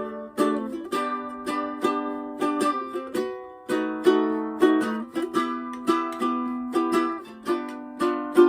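A plucked string instrument played solo in an instrumental passage, with picked notes and chords in a steady rhythm, each one fading out. There is no bass and no voice.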